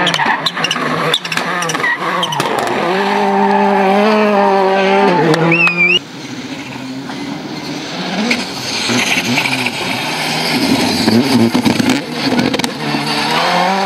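Rally cars at racing speed on a stage, engines revving hard and rising and falling in pitch through gear changes. A brief tyre squeal comes just before an abrupt cut about six seconds in, and then another car is heard revving up.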